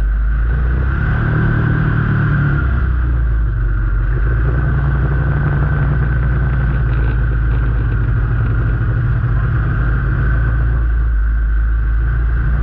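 Motor vehicle engine running steadily while driving, a constant low rumble with no clear change in speed.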